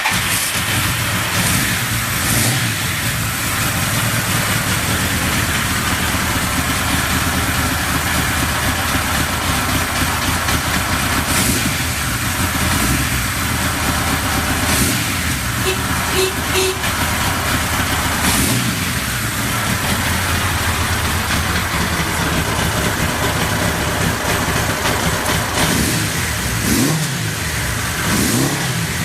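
Suzuki GS1100E air-cooled inline-four motorcycle engine running steadily just after starting on the electric starter, with a couple of rising revs near the end. It is claimed to run without abnormal noises.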